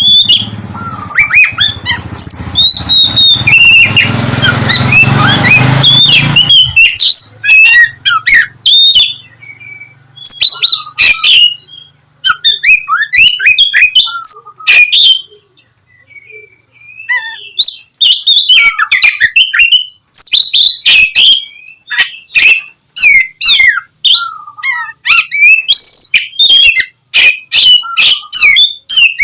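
Oriental magpie-robin (kacer) singing loudly in fast runs of varied whistles and chirps, broken by short pauses. A low rumble runs underneath for the first several seconds, then stops.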